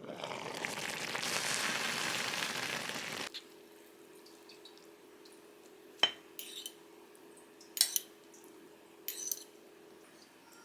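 Kitchen sounds: a loud even hiss of cooking for about three seconds that cuts off suddenly, then a low steady hum with three sharp clinks of dishes or utensils.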